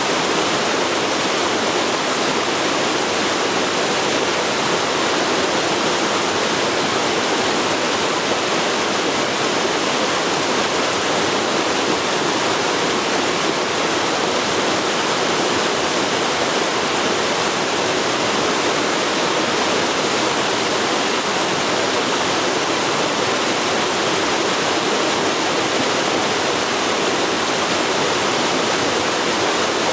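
Forest river rushing steadily, a dense even wash of flowing water with no breaks.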